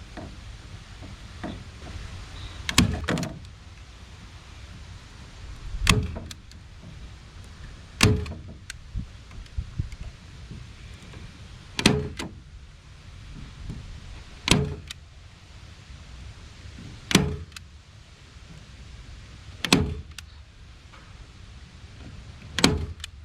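Staple gun firing staples through window screen into a board: about eight sharp clacks, one every two to three seconds.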